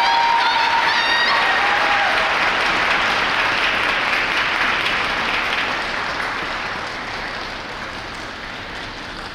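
Ice rink crowd applauding, with a few high-pitched cheers in the first two seconds. The applause slowly dies down over the second half.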